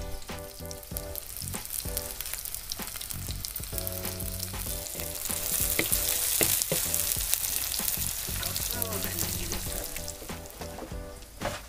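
Sliced onions and dried red chillies sizzling in hot oil in a blackened pan, with a spatula scraping and knocking as they are stirred. The sizzle swells louder in the middle.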